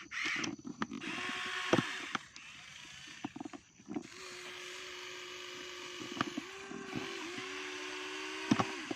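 Small electric motor of a radio-controlled toy vehicle running with a steady whine that steps slightly lower about seven seconds in, with a few sharp clicks along the way.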